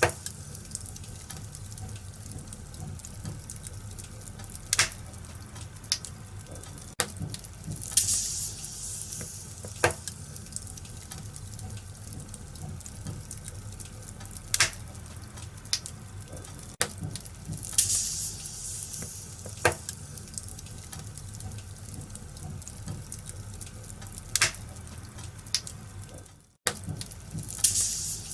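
Wood fire crackling in a fireplace: a steady hiss and rustle broken by sharp pops every second or two, with occasional swells of hissing. The sound drops out for an instant near the end.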